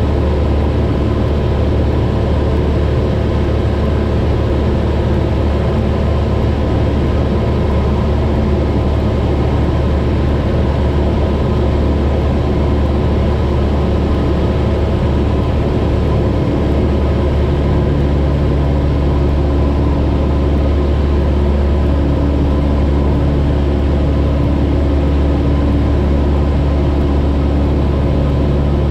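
Cessna 172's piston engine and propeller droning steadily in cruise, heard inside the cabin as a loud, even low hum. A slightly higher steady tone joins about two-thirds of the way through.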